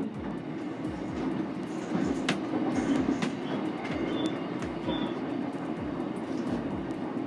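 Interior running noise of an SR1 series electric train under way: a steady rumble with wheels clacking regularly over rail joints, and a few sharper clicks.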